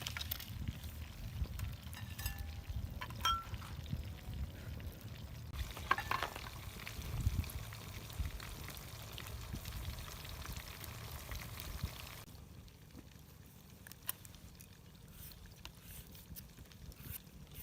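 Food frying in a pan with a sizzling hiss and scattered small clicks and knocks. The hiss drops away about twelve seconds in.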